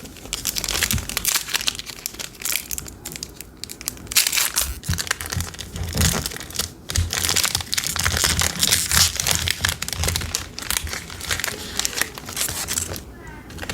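Plastic wrapper of a trading-card pack crinkling and tearing as it is opened and handled, a dense, irregular crackle.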